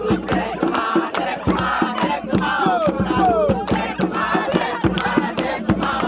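A crowd of young people shouting and chanting together over fast, sharp percussive beats, with a few long cries sliding down in pitch in the middle.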